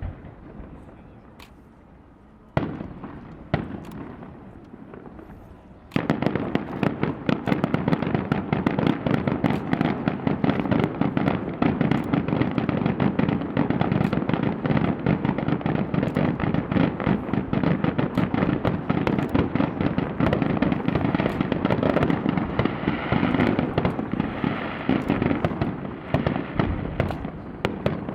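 Aerial fireworks bursting: a few separate bangs in the first six seconds, then a dense, unbroken barrage of bangs and crackling that runs until just before the end.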